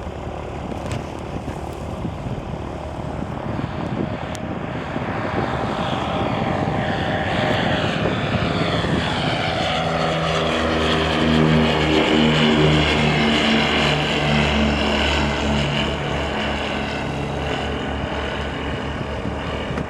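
Tecnam P2006T light twin at full takeoff power, its two Rotax 912 four-cylinder engines and propellers growing louder through the takeoff run. It is loudest a little past halfway, with the pitch falling as it passes, then it fades slightly.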